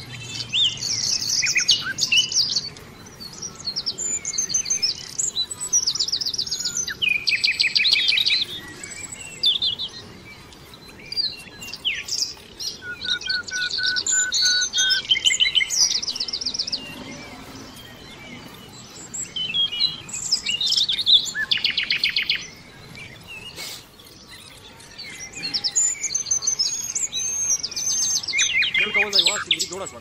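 Small birds chirping and singing in repeated bursts of high chirps and quick trills, with short lulls between the bursts.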